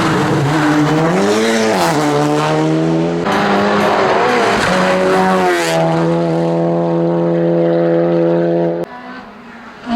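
Race car engine at full throttle, its pitch dipping and climbing through gear changes, then holding a steady high note. The sound cuts off abruptly near the end.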